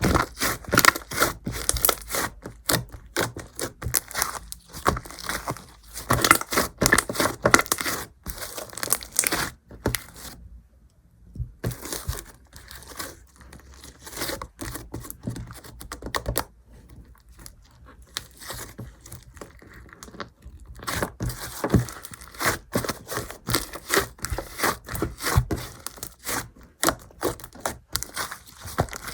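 Slime being squished and stretched by hand, with dense, rapid crackling and popping clicks; it goes quieter for a moment about ten seconds in, then softer for several seconds before picking up again.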